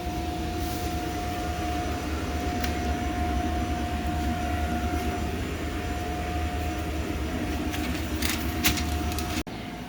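Paint booth ventilation fan running: a steady low hum with a thin, steady whine above it. There are a few clicks near the end, and the level drops abruptly shortly before the end.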